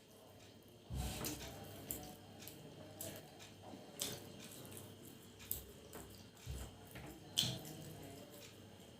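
Eating sounds: food being mixed by hand and eaten from a plate, heard as irregular soft wet clicks and knocks starting about a second in.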